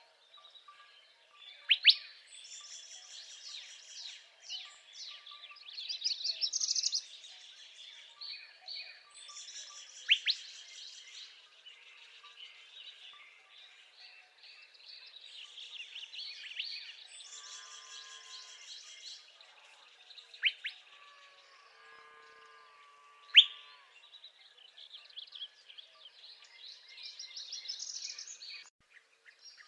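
Northern parula singing, repeating a buzzy, rising trill several times, some songs snapping off in a sharp upward note. Another bird's lower, warbled notes come in around the middle.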